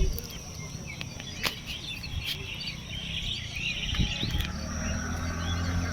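Outdoor evening ambience: a steady high-pitched insect drone with birds chirping. A motor vehicle's engine hum comes in low about two-thirds of the way through.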